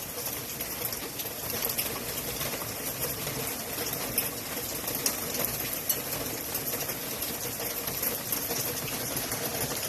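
Hail falling steadily: a dense, even patter of hailstones hitting the ground, with scattered faint ticks.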